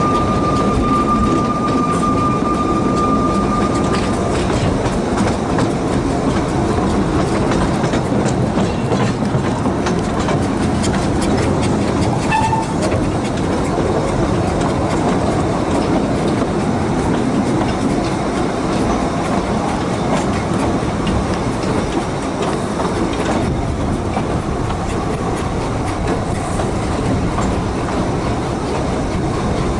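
2ft-gauge steam train running, heard from an open carriage window: a steady rumble with wheels clicking over the rail joints. A thin, high, steady squeal fades out about four seconds in.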